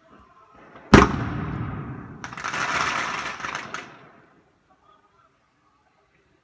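A firework goes off with one loud bang about a second in, ringing out as it fades. It is followed by a hissing burst of about a second and a half that stops abruptly.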